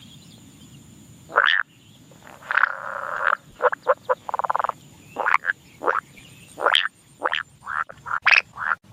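Frogs croaking in a series of short separate calls, one of them a rapid pulsed trill about four and a half seconds in.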